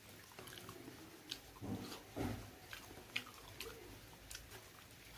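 A person chewing and biting into pork, with small wet mouth clicks and a louder bite about two seconds in.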